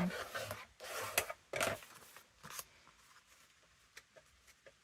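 A folded sheet of paper being burnished flat along its fresh crease: four or five short rubbing swishes in the first two and a half seconds, then faint paper rustles and light ticks.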